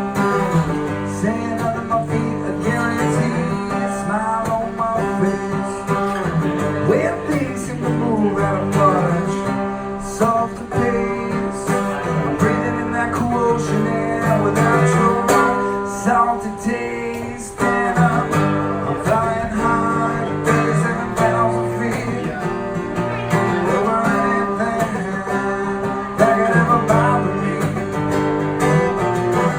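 Acoustic guitar strummed and picked through an instrumental break in a live solo song.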